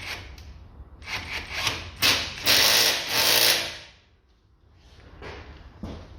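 Tools at work fitting a car's steering tie-rod end: a series of quick strokes, then a louder, continuous stretch of about a second and a half.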